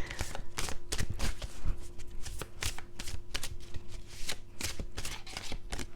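A deck of oracle cards being shuffled by hand: a quick, irregular run of papery clicks and slaps.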